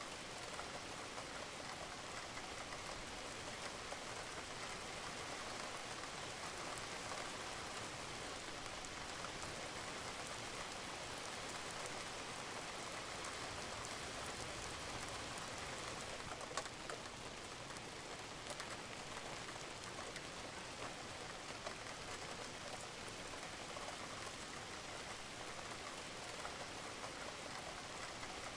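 Steady rain falling on a roof, with individual drops ticking through the hiss and one louder drip a little over halfway through.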